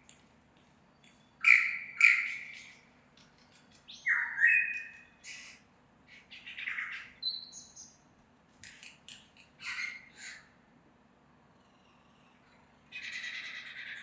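Superb lyrebird singing: a series of loud, varied calls, each a second or less, with short pauses between them. This is its song of mimicked sounds.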